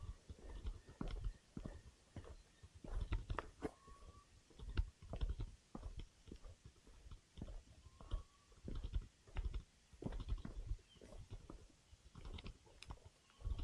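Footsteps crunching on a leafy, twiggy forest trail, about one step a second. A bird gives a faint short rising whistle about every four seconds.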